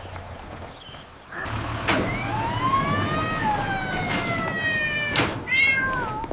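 Emergency-vehicle siren wailing, its pitch gliding up and then slowly down, over a low vehicle rumble that starts about a second and a half in, with a few sharp clicks.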